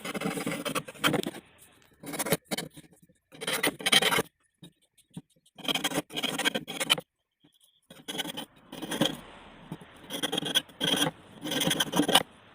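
Hand file scraping back and forth in repeated strokes, in about seven bursts with short pauses between them.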